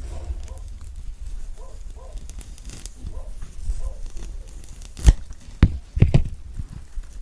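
Thick orange peel being torn and pulled away from the fruit by hand, with a few sharp snaps of peel about five to six seconds in.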